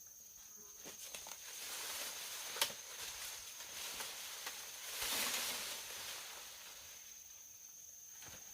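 Rustling and scuffing handling noises with one sharp click about two and a half seconds in, loudest around the middle, over a thin steady high-pitched tone.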